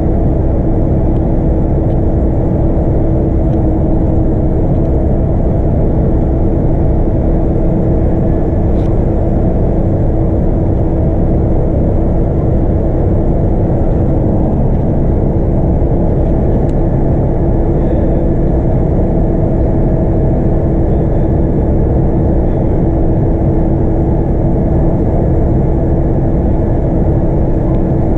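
Scania K230UB bus heard from inside the cabin, its 8.9-litre five-cylinder diesel engine running steadily under way with road rumble. A steady whine sits on top.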